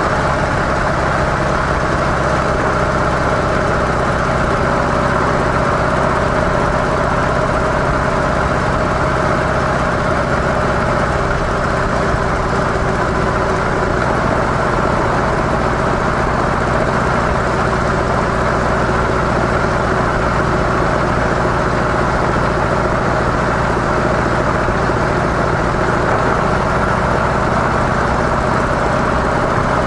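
Harley-Davidson CVO Softail Deluxe's V-twin engine running steadily at an even pitch through its stock mufflers.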